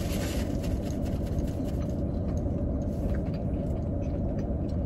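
Steady low hum of a parked car idling, heard from inside the cabin.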